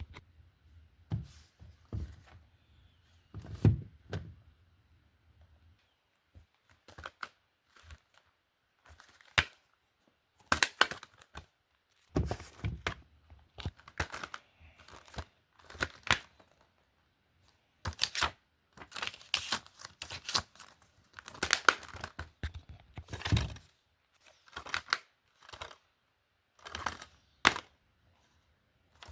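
Hard plastic DVD cases being handled, with irregular clacks, clicks and knocks as cases are picked up, opened and set down. A faint low hum runs under the first few seconds.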